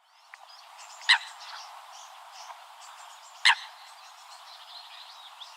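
Bird calls: two short, sharp, loud calls about two and a half seconds apart, over a steady background of faint chirping.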